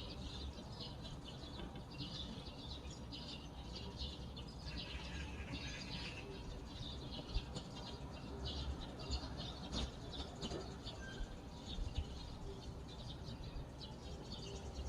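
Small birds chirping and twittering in a dense, continuous chorus, over a low steady rumble.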